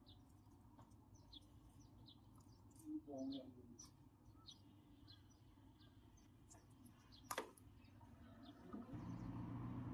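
Near silence, with faint, scattered bird chirps in the background. There is a single sharp click about seven seconds in, and a low steady hum begins near the end.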